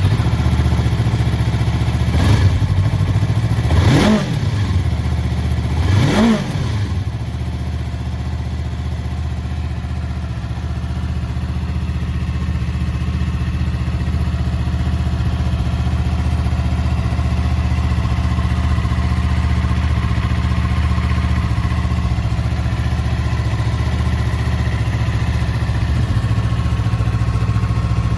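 Yamaha YZF-R3's 321 cc parallel-twin engine revved briefly three times, about two seconds apart, then idling steadily.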